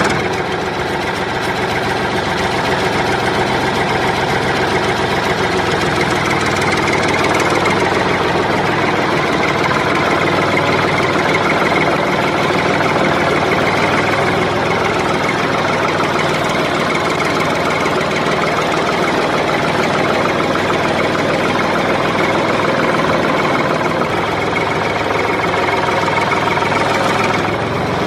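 An engine running at a steady idle, even and unchanging.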